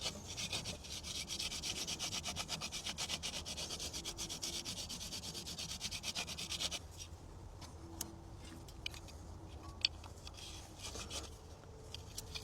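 Hand sanding a battery terminal with Abranet mesh abrasive: quick, even back-and-forth scraping strokes to clean it up for a better connection. The rubbing stops about seven seconds in, leaving a few light clicks.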